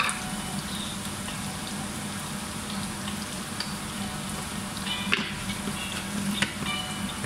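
Garlic, onion and spices frying in oil in a pan, a steady sizzle, with a couple of light clicks in the second half.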